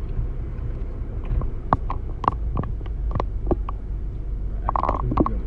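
Car driving, with a steady low road and engine rumble heard from inside the cabin, and a few scattered short clicks and knocks.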